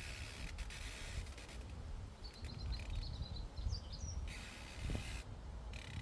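Outdoor meadow ambience: a steady low wind rumble on the microphone, with a small songbird chirping a quick run of high notes for about two seconds in the middle.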